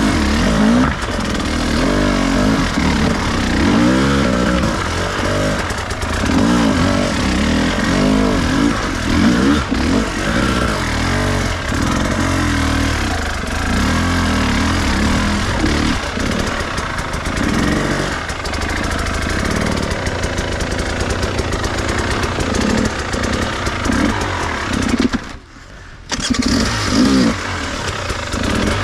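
Enduro dirt bike engine being ridden, its revs rising and falling again and again. Near the end the engine sound drops away for about a second, then comes back with a quick burst of revs.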